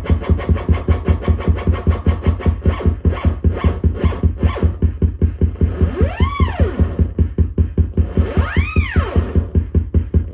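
Electronic synthesizer jam: a fast, steady pulsing loop with a heavy deep bass. Twice, a swooping tone glides up in pitch and back down over it, about six seconds in and again near the end.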